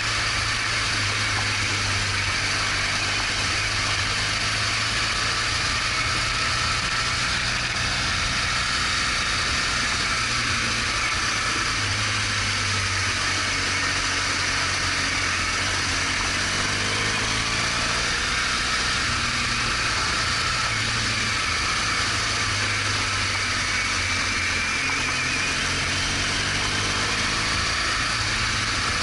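BMW R1200GS Adventure motorcycle's boxer-twin engine running steadily on the move, mixed with wind and road noise. The engine note rises and falls a little around the middle.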